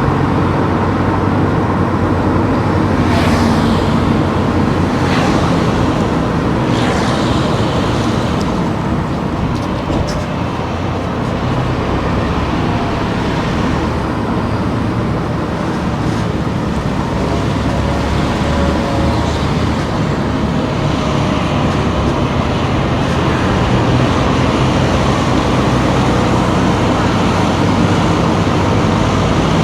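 A car driving: steady engine and tyre-on-road noise, with a few brief hisses about three to seven seconds in.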